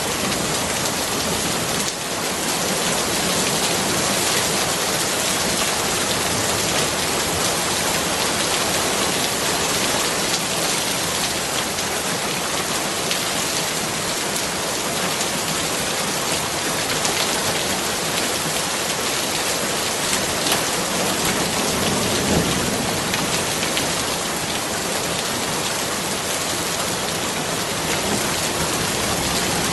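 Steady rain falling in a dense, even hiss.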